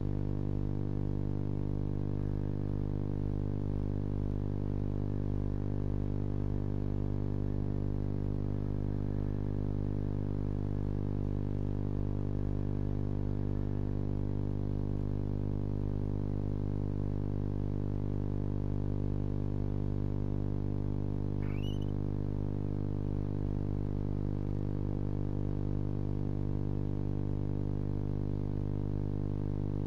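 Steady electrical hum with many even overtones, unchanging throughout, with one short faint rising chirp about two-thirds of the way through.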